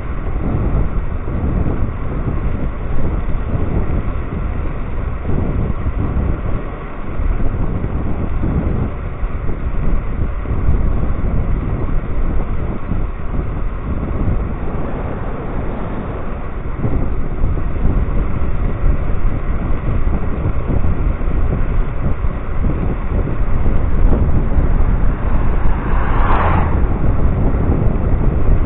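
Wind buffeting the microphone of a rider on a moving electric scooter, with low rumble, growing louder over the last few seconds. A short higher sound stands out near the end.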